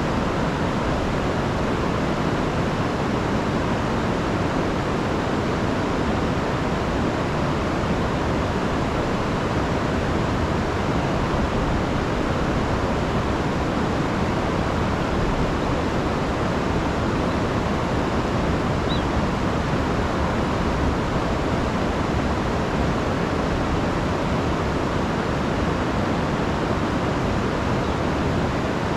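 River in spate after a week of heavy rain, rushing and tumbling over falls with a steady, even roar of water.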